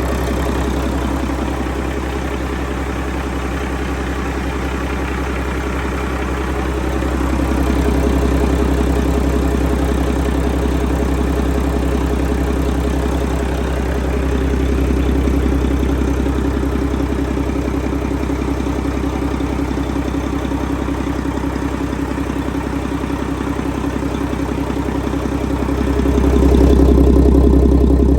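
2017 Mack MP7 10.8-litre six-cylinder diesel engine running at idle during a test run, steady throughout and getting a little louder about a quarter of the way in and again near the end.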